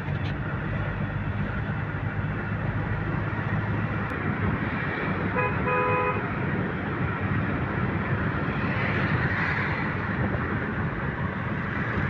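Steady road traffic noise with a low drone of vehicles on the move, and a vehicle horn honking briefly about five and a half seconds in.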